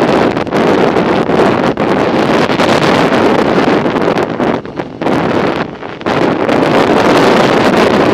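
Wind buffeting the microphone of a camera carried on a moving bicycle: a loud, steady rush that eases twice briefly around the middle.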